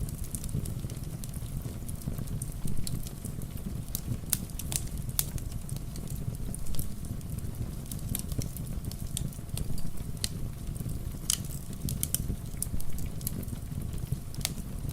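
Wood fire crackling, with scattered sharp pops over a steady low rush, blended with falling rain.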